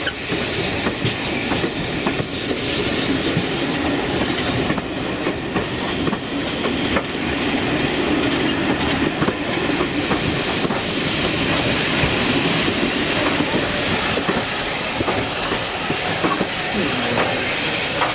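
Steam train running along the line: a steady rumble and rush with occasional sharp clicks of the wheels passing over rail joints.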